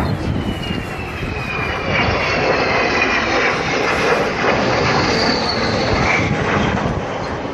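An aircraft flying past, its engine noise steady and loud with a whine that falls slowly in pitch as it goes by.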